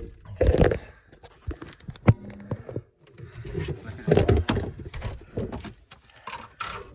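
Irregular knocks, clunks and scrapes of hands working on condensate drain piping and a drain pan, with a few loud hard knocks about half a second, two seconds and four seconds in.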